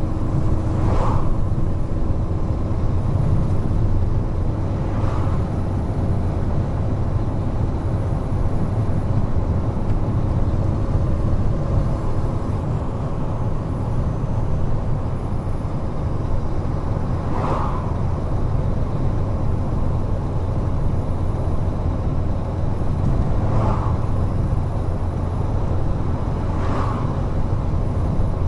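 Large truck driving at speed on an expressway: a steady low rumble of engine and road noise, with five brief rushes of noise at uneven intervals.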